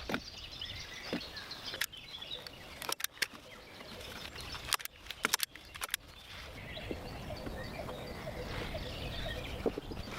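Birds chirping over an outdoor background, broken by a number of sharp knocks or clicks, several close together between about three and five and a half seconds in.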